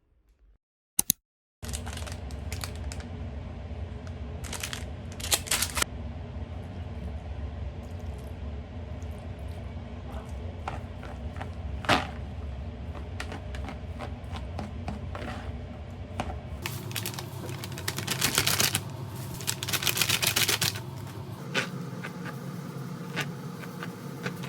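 A scatter of small clicks, taps and knocks over a steady low hum, with a denser run of rattling clicks about three quarters of the way in.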